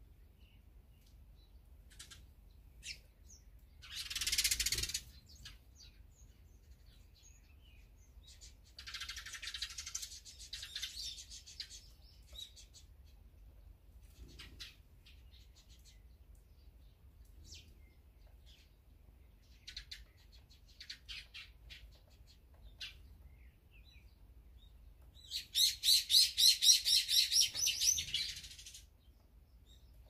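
Wild birds calling: scattered short high chirps, a short noisy burst about four seconds in and a longer one around ten seconds, then a loud, fast run of repeated notes near the end.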